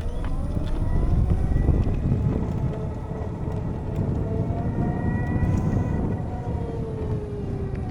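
Harley-Davidson LiveWire electric motorcycle under way: its motor whine rises in pitch at the start, holds, then falls away near the end. A heavy low rumble of wind on the helmet-mounted microphone runs underneath.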